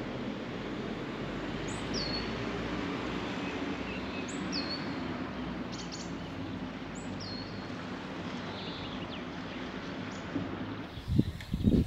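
A bird repeats a short, high call that sweeps downward, about every two and a half seconds, over steady outdoor background noise. Near the end come a few loud thumps.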